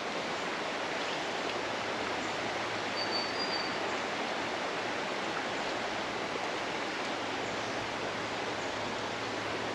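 Steady rushing of a fast-flowing creek running high, with a brief faint high-pitched note about three seconds in.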